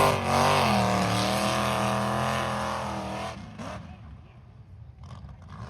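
Mega truck engine held at high revs, its pitch dipping slightly and then holding steady for about three seconds before the throttle is let off and it drops away.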